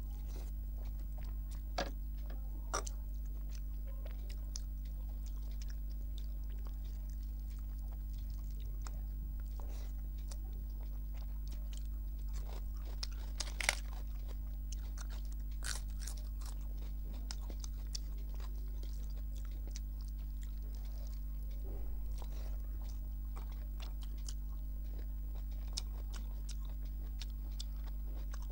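A person eating rice and curry by hand: soft chewing and scattered sharp mouth clicks and crunches, the loudest about fourteen seconds in, over a steady low hum.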